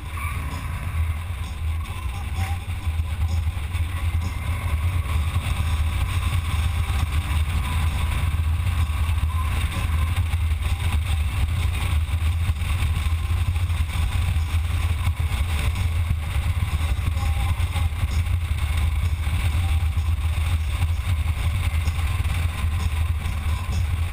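Motorcycle running at a steady road speed, a steady low rumble with rushing noise on top, growing a little louder over the first few seconds.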